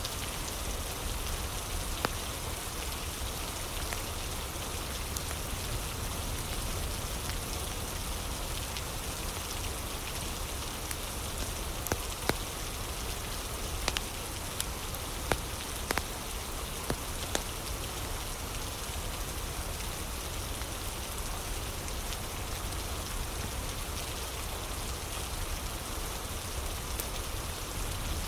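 Steady rain falling, with scattered sharp pops of a crackling fire, several of them close together near the middle.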